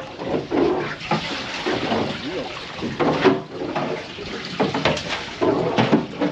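Water splashing and rushing, broken by several sharp knocks or splashes.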